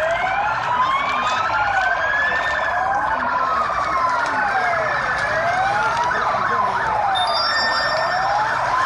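Several emergency vehicle sirens wailing together, each slowly rising and falling in pitch and out of step with the others. About seven seconds in, one switches to a faster warble.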